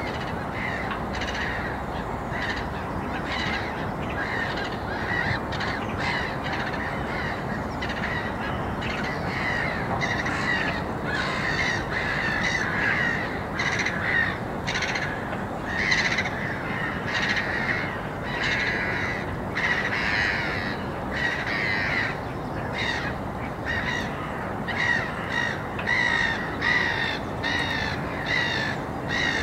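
Birds calling: many short, repeated calls, sparse at first and coming thick and fast from about ten seconds in, over a steady low background noise.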